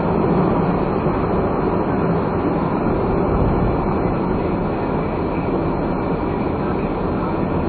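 Steady engine and road noise inside the cabin of a non-turbo kei car under way, with no sudden events.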